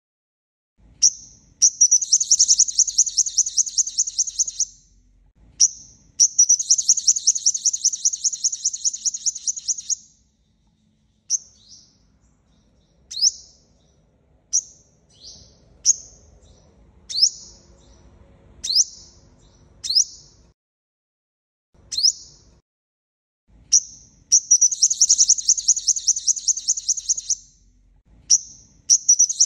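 Sunbird song: sharp, high single chip notes that break into fast, high trills lasting a few seconds. Three such trills come, with a stretch of single chips about a second apart between the second and third.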